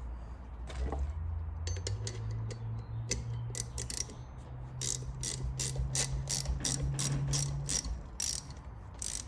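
Socket-wrench ratchet clicking as it turns the screw of a valve spring compressor, compressing a valve spring on a cylinder head. A few clicks at first, then a steady run of about three clicks a second from a few seconds in.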